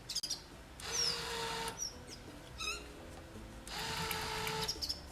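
Electric truck winch run by remote in two short pulls of about a second each, a steady motor whine over gear noise, with birds chirping between them.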